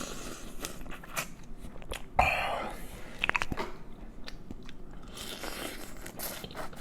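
Close-miked chewing and biting of food, with wet mouth clicks and a louder crunch about two seconds in.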